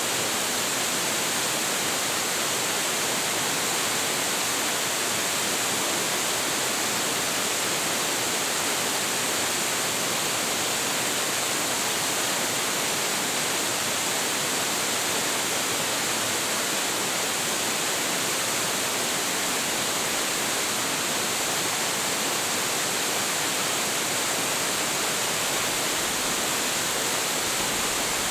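Waterfall: a large, high-volume cascade of water falling and splashing, a steady, unbroken rush of noise with a strong hiss.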